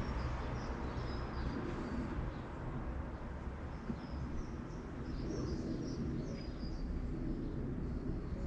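Small birds chirping in short, high calls, scattered throughout, over a steady low background rumble.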